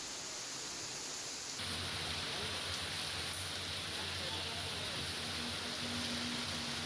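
Steady hiss of rain with faint distant voices. About one and a half seconds in, the sound changes abruptly to another stretch of rain noise with a low rumble underneath.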